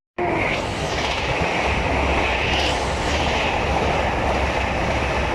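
A train running through the station: steady, loud wheel-on-rail noise that starts abruptly just after the start.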